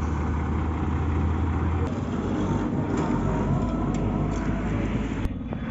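Heavy diesel engine running with a steady low note that shifts about two seconds in, with a couple of sharp clicks.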